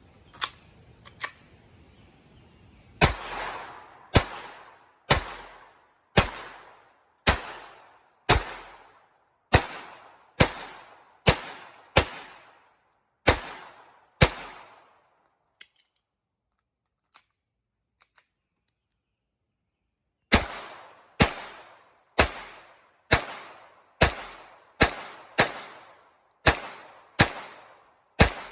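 Walther PPQ .22 LR pistol being fired in slow, steady strings, about one shot a second, each crack with a short fading tail. There are two quieter shots at the start, then about a dozen shots. A pause of about six seconds follows, with a few faint clicks, and then another string of about ten shots.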